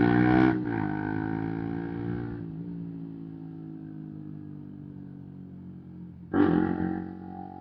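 125cc single-cylinder sport motorcycle engine with an aftermarket Arrow exhaust. The revs drop sharply about half a second in, then the engine note sinks slowly and quietens as it rolls off the throttle. A sudden short burst of throttle comes near the end.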